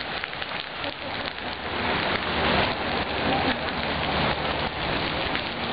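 Steady rain falling on a flooded street, with the rush of the floodwater: a dense, even patter with no let-up.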